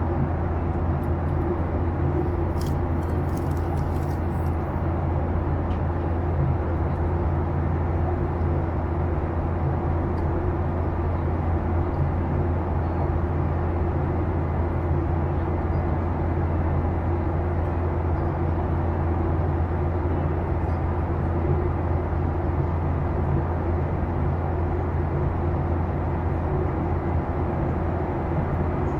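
Steady drone of a Boeing 737-800's CFM56-7B engines heard inside the passenger cabin, with a deep low hum and a constant rush of noise that does not change in pitch or level.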